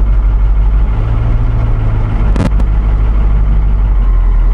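Caterpillar 3208 V8 diesel of a 1977 Ford 8000 dump truck running steadily, with a single sharp knock about two and a half seconds in.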